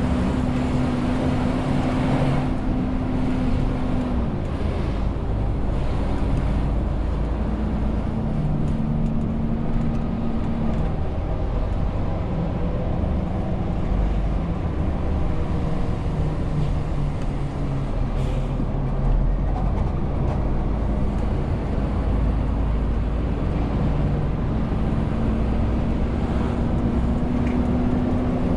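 Renault T520 truck's 13-litre six-cylinder diesel running under a 40-tonne load, with steady road noise. The engine note drops twice in the first ten seconds or so and rises again near the end.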